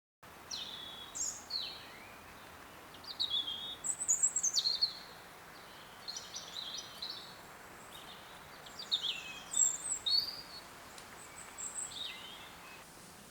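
Wild birds singing and calling in bursts of short, quick chirps and warbles, more than one bird, over a steady faint hiss of background noise.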